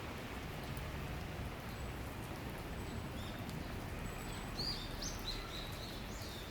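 Steady rain shower falling. From about halfway through, a bird calls with a series of short, high chirps.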